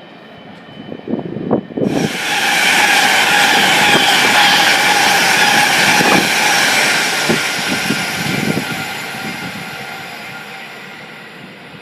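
A train passing close by: a few heavy thumps, then a loud rushing noise with faint high tones that starts suddenly about two seconds in and slowly dies away near the end.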